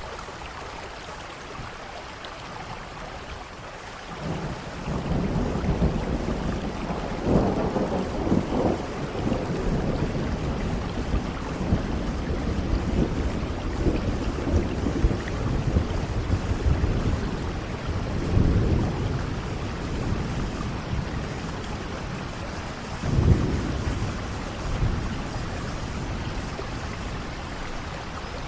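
Steady rain with thunder: a low rumble rolls in about four seconds in and keeps rumbling in waves, with a sharper, louder thunderclap about two-thirds of the way through.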